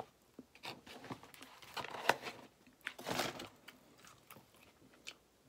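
A person chewing and smacking mouthfuls of fast food close to the microphone, with scattered short crunches and mouth clicks, the loudest about two and three seconds in.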